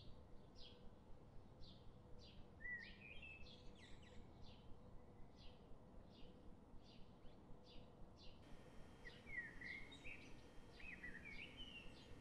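Faint birdsong: one bird repeats a short high chirp about one and a half times a second, while another sings a warbling phrase of rising and falling notes twice, once early and once near the end.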